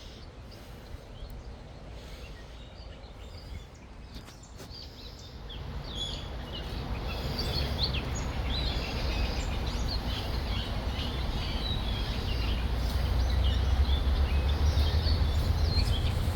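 Many birds chirping and calling in quick short notes, joining in and growing louder from about six seconds in, over a low rumble that builds alongside them.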